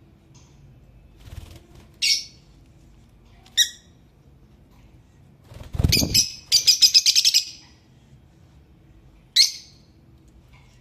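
Blue Fischer's lovebirds chirping: short, sharp high calls about two seconds in, again a second and a half later and near the end, and just past the middle a low thump followed by a rapid run of about eight chirps in a second.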